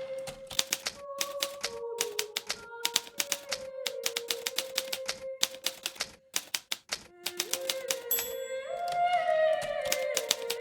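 Hermes Baby portable typewriter being typed on: rapid, irregular key strikes in runs, thinning to a few scattered strikes about six to seven seconds in before picking up again. Background music with held notes that shift in pitch plays underneath.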